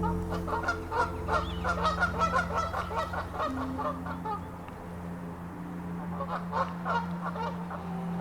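A flock of geese honking, many short calls overlapping. They are dense at first, thin out past the middle and pick up again near the end, over a steady low musical drone.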